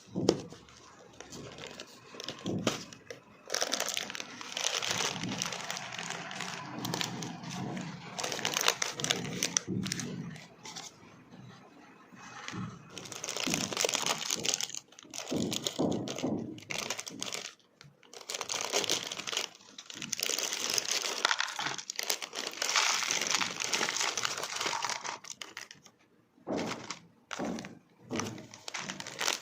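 Ready-to-eat noodle packaging being handled and torn open: crinkling and tearing in long bursts with short pauses.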